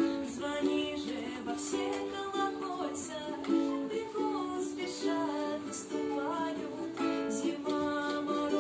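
Music on a plucked string instrument: notes and chords picked in a steady rhythm.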